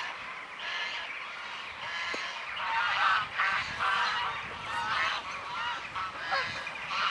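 Geese honking, with many short calls overlapping and repeating.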